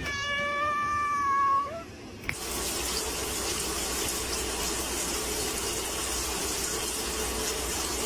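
A cat gives one long meow, nearly two seconds, rising a little at the end. Then a tap runs steadily for the rest.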